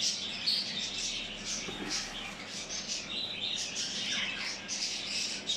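Many cage birds chirping and twittering together, a dense run of short high calls without a break.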